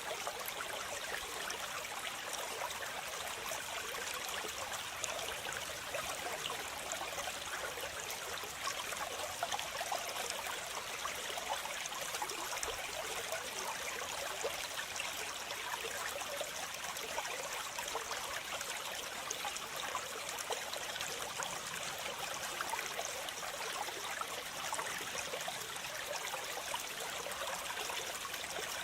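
Waterfall: a steady, unbroken rush of falling water, bright and hissing with little low rumble.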